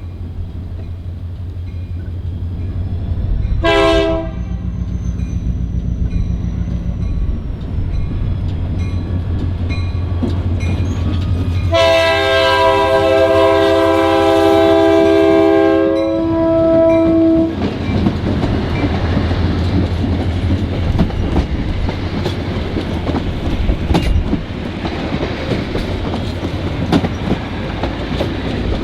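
A diesel locomotive passes close by, its engine rumbling, and sounds its multi-note air horn: one short blast about four seconds in, then a long blast of several seconds in the middle. Once the horn stops, the passenger cars' wheels clatter over the rail joints.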